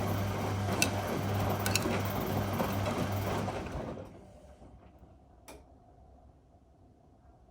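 Whirlpool Indiana 1400 washing machine turning its drum: a motor hum over the churning of wet laundry, which stops about four seconds in. A single click follows about a second later, then it is quiet, the pause between turns of the wash cycle.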